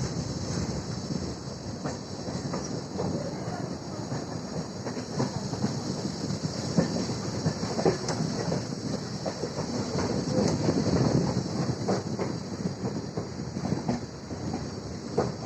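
Kolkata suburban electric local train running, its wheels clattering over the rail joints with frequent knocks and rattles under a steady rumble.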